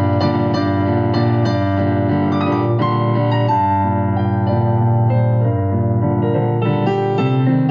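Instrumental keyboard music, a soft electric-piano or piano playing sustained chords and melody notes at a steady level.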